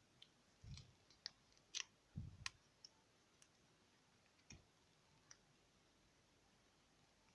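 Faint, scattered sharp clicks mixed with a few soft low thumps, all in the first five seconds or so.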